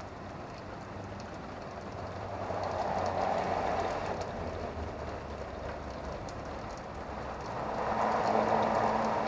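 Steady rain falling, with a swell of louder hiss about two and a half seconds in and another near the end, over a faint low hum.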